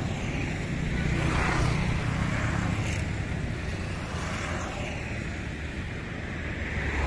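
Freight train running on past the overpass with a low, steady rumble, while a few road vehicles pass close by with rising and falling swells of noise.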